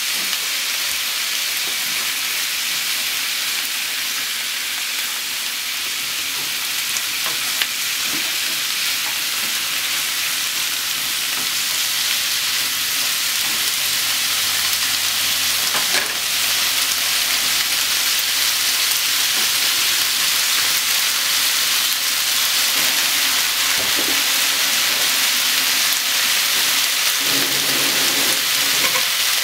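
Sliced onions frying in a pan, with a steady sizzle. A few light clicks come from chopsticks stirring against the pan.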